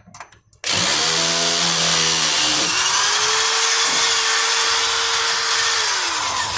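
Cordless power screwdriver running, backing out a counterweight bolt of a front-loading washing machine. Its motor starts about half a second in, holds a steady pitch, and winds down near the end.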